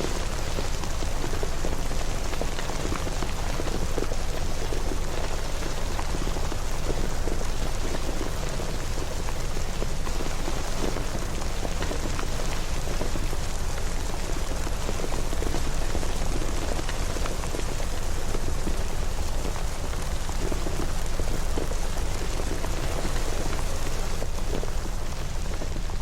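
Steady rain falling, with many small scattered droplet ticks over a constant hiss and a steady low rumble underneath.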